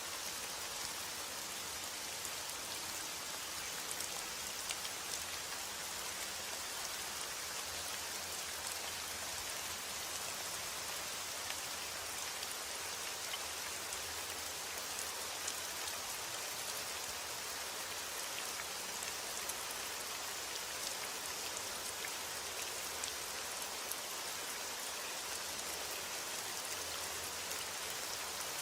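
Steady rainfall, a constant hiss of rain with many small drops pattering on a surface.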